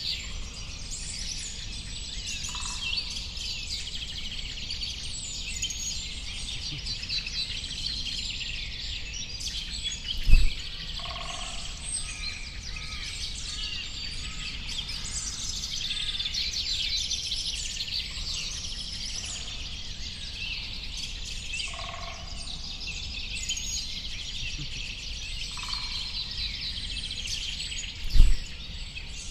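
A dense chorus of many small songbirds chirping and twittering, with a lower two-note call now and then over a faint rumble. Two brief low thumps, about ten seconds in and near the end, are the loudest sounds.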